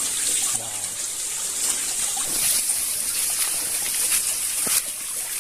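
Stream water flowing and trickling steadily, with a single sharp click a little before the end.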